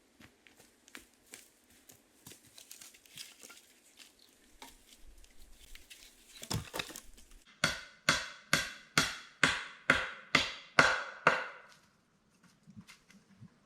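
Hand tool striking wood: a run of about ten loud, sharp, evenly spaced blows, roughly two and a half a second, in the second half, after several seconds of light tapping and handling clicks.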